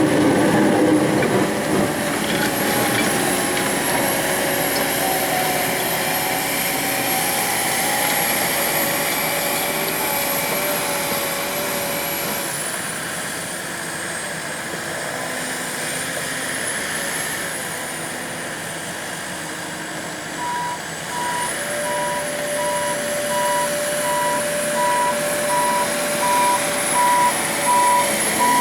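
Truck engine running, with its reversing alarm starting to beep steadily about two-thirds of the way through.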